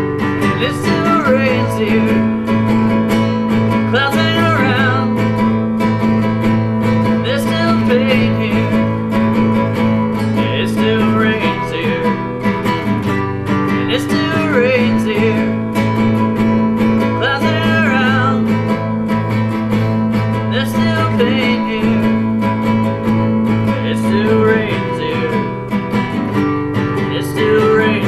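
Acoustic guitar strummed in steady chords in an instrumental passage of a song, with a wavering melody line above it returning every few seconds.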